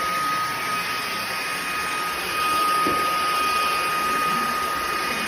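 Airbot Hypersonics PRO cordless handheld vacuum cleaner running: a steady high-pitched motor whine over a constant rush of air, a little louder from about two seconds in.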